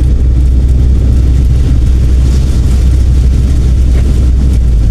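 A car driving along the road, heard from inside the cabin: a steady, loud low rumble of engine and road noise.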